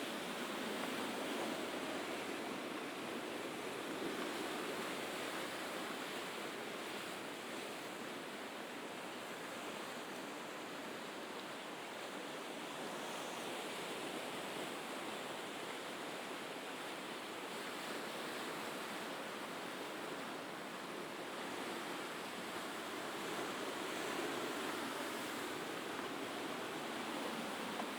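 Mediterranean sea waves washing onto the shore, a steady rushing wash that slowly swells and eases.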